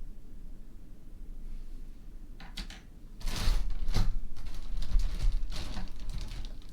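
Clicking and rustling of metal brooches and pins being handled and picked out of a packed bag, starting about two and a half seconds in.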